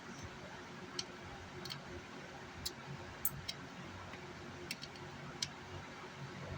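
Scattered sharp clicks and taps, about eight at uneven spacing, from hand tools working on an amplifier circuit board, over a steady low background hum.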